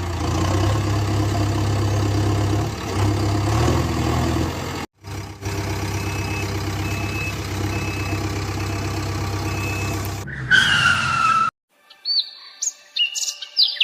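Heavy vehicle engine sound effect running steadily, cut off briefly twice, with four evenly spaced beeps of a reversing alarm in the middle. Near the end a short falling whine, then a few bird chirps.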